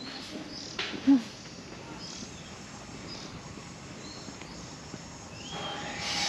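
Small birds chirping in short, scattered calls over outdoor background noise. A brief low thud about a second in is the loudest sound, and a short rush of noise comes near the end.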